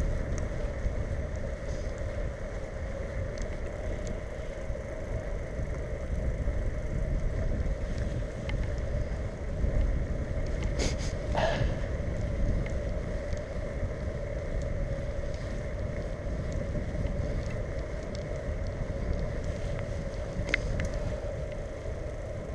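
Wind rumbling on the microphone of a bicycle being ridden along, with the rolling noise of its tyres and a steady hum. A few light clicks come about halfway through and again near the end.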